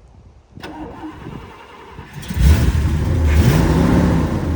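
V8 engine being cranked, catching about two seconds in with a loud rumble, blipped once (pitch rises and falls) and then settling into a rough idle.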